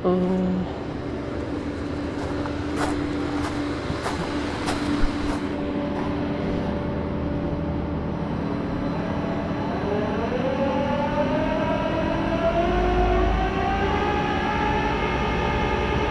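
Tow truck machinery running: a steady hum with a few sharp clicks early on, then about halfway through a whine of several tones that rises in pitch and levels off, as the truck's engine speeds up to drive the bed's hydraulics.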